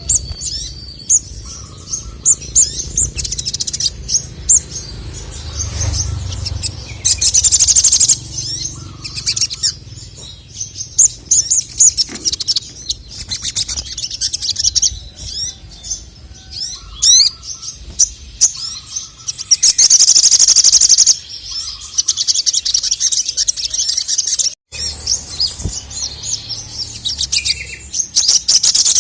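Male sogon (sogok ontong, the little spiderhunter) singing continuously in full song: quick, high chirping phrases, broken twice by a loud rattling trill lasting over a second.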